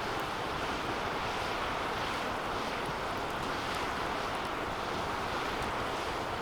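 A wood fire burning in a metal fire pit: a steady rushing sound of the flames with small scattered crackles.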